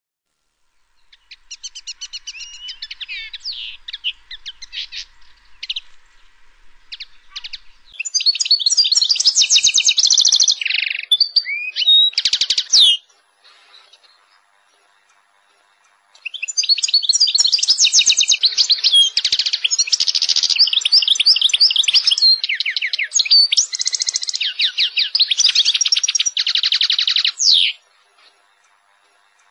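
A songbird singing long, fast runs of varied chirps and trills. It starts softly, turns loud, breaks off for a few seconds, then sings one long loud bout of about twelve seconds that stops suddenly near the end.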